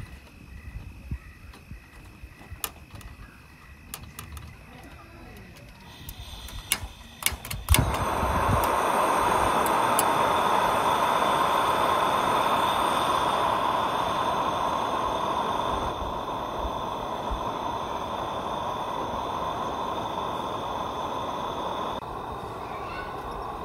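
Gas lantern being lit: a few sharp clicks, then from about eight seconds in a steady hiss of burning gas, which steps down a little twice as it is turned down.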